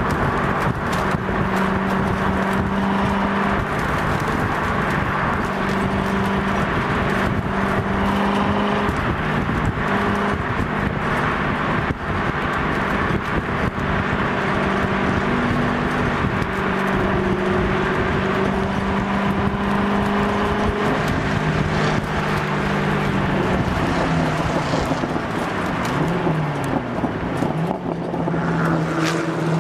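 Corvette C6's V8 engine running hard at track speed, over heavy wind and road noise. Its pitch holds steady, then steps at each gear change, and swoops up and down near the end.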